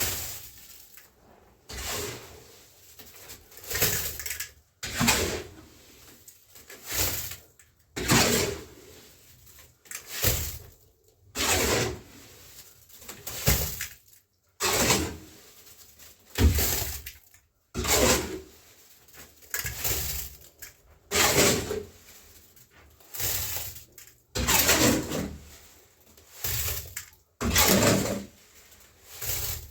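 A hand tool scraping through wet cement in repeated strokes, about one every second and a half.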